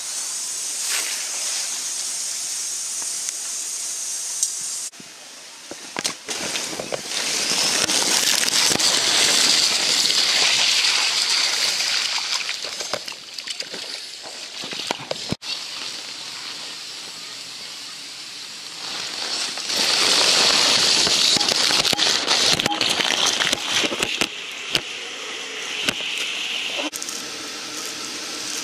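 Water splashing and rushing over a wet inflatable waterslide. It is loudest in two stretches of several seconds each, with a few sharp knocks between them.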